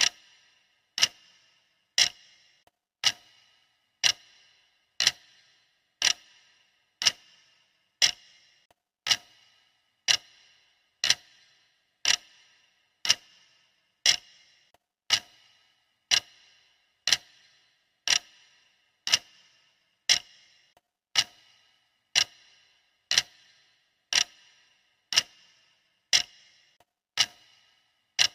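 Clock ticking steadily, about one sharp tick a second, each with a brief bright ring.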